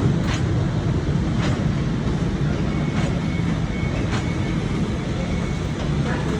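Train running along the track: a steady low rumble with a few sharp clicks, and a faint thin high tone for a second or so in the middle.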